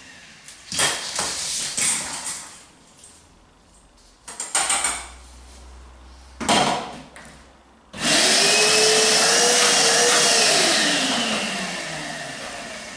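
A few short knocks and clatters of debris, then a Titan TTB350 1300-watt vacuum cleaner switches on suddenly about eight seconds in. It runs loudly for a couple of seconds, then its motor winds down with a falling pitch. The vacuum is being cleared of a bit of rock caught in its intake.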